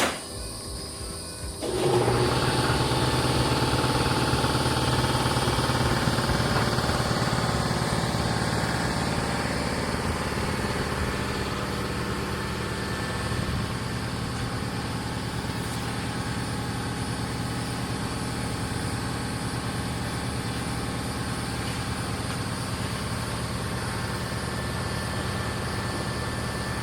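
An electric air compressor switches on about two seconds in and runs steadily with a low motor hum, building air for spray painting.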